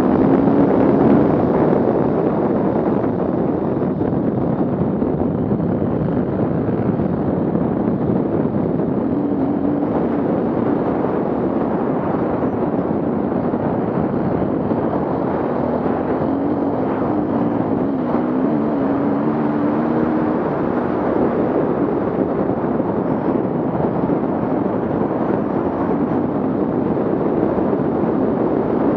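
Off-road vehicle engine running, a loud steady rumble with an engine note that wavers up and down now and then, most clearly around the middle.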